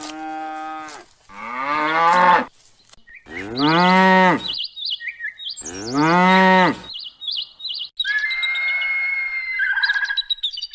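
Cattle mooing, four drawn-out calls of about a second each, with small birds chirping between them and singing a few high whistled notes near the end.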